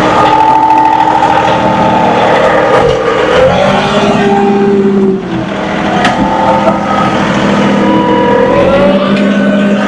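John Deere 2038R compact tractor's diesel engine running and changing speed, its pitch rising and falling with several steps, as the auto throttle raises and lowers the revs under load.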